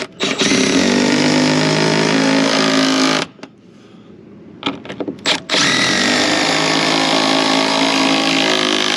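Milwaukee M12 Surge hydraulic impact driver with a 7/16 socket driving lag bolts into wood. It runs in two long bursts of about three seconds each, with a short pause and a couple of brief trigger blips between them.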